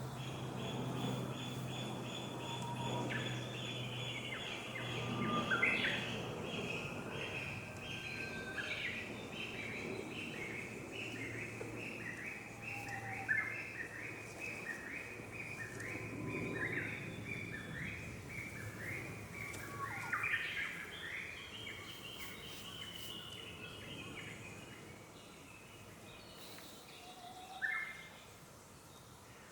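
Wild birds singing: a long run of short repeated whistled notes, slowly falling in pitch, then a second shorter run about two-thirds of the way through, with a few single calls, over a steady low hum.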